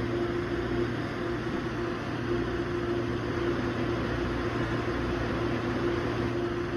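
Steady interior noise of an MTR Airport Express train carriage: an even rumble and hiss with a steady hum and a held tone.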